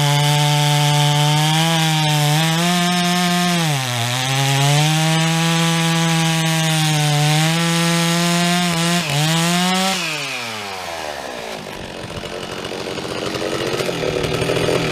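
Two-stroke chainsaw running at high revs while cutting wood, its pitch sagging briefly under load about four and nine seconds in. About ten seconds in the throttle is let off and the revs fall away, then they climb again near the end.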